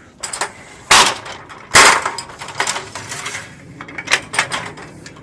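A run of sharp metallic clanks and knocks from ladder and gutter-protection gear being set up at a roof edge, with two loud strikes about one and two seconds in and lighter knocks after.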